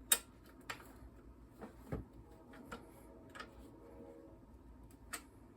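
Scattered light clicks and taps of a hand tool working on small engine bolts, about half a dozen irregular ticks.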